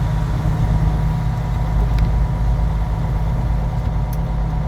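A vehicle's engine runs steadily with a constant low drone, heard from inside the moving vehicle.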